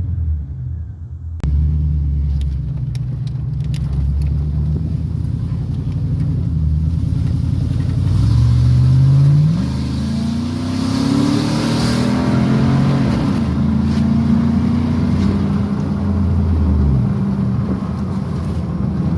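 Chevrolet 5.3-litre V8 of a 1999 Silverado, with ported heads and a straight-pipe exhaust, running with a low, steady note. It is revved about eight seconds in, the pitch climbing for a second or so before dropping back, then revved up and down again.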